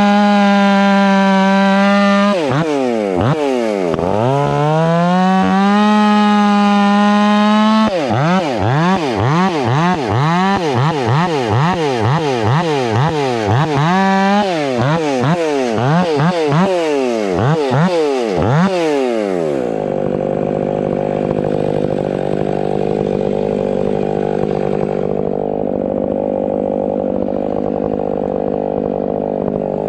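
Ported Stihl 500i fuel-injected two-stroke chainsaw running at a steady high pitch wide open, then its revs dip and climb back. It then revs up and down about once a second for some ten seconds, and about twenty seconds in it drops to a lower, steadier running.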